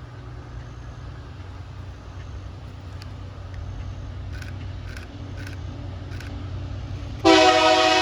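Diesel freight train's engines rumbling low as it approaches, then a loud locomotive horn blast starting suddenly about seven seconds in and lasting just under a second.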